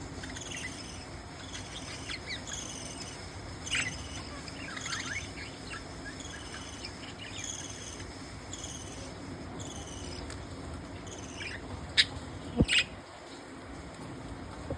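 Budgies (budgerigars) chirping and warbling in quick repeated high twitters, over a steady low hum. A few sharp clicks or taps stand out about twelve seconds in.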